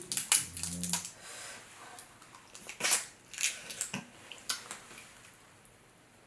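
Crab shell being cracked and snapped apart by hand: a series of sharp cracks and snaps, the loudest about three seconds in, thinning out near the end.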